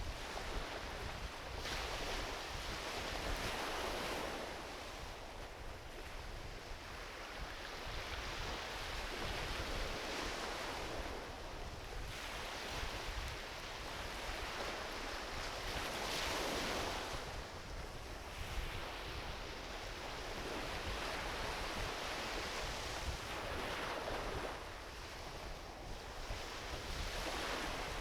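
Small ocean waves washing onto a beach, the surf swelling and falling back every few seconds, with a low rumble of wind on the microphone.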